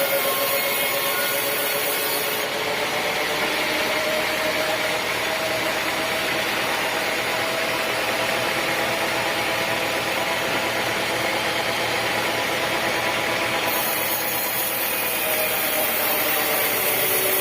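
Sawmill saw running steadily while cutting teak wood: a continuous mechanical din with a faint whine through it.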